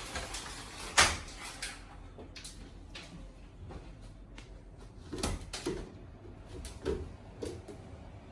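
A door and its latch being handled: one sharp click about a second in, then a few softer knocks and thuds later on.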